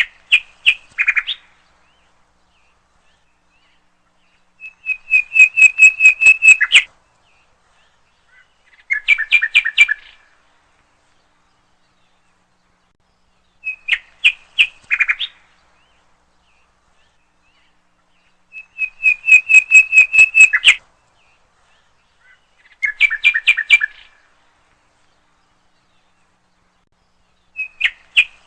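A bird singing in phrases of rapid, evenly repeated high notes. The same three phrases come back in an identical cycle about every 14 seconds, as in a looped recording.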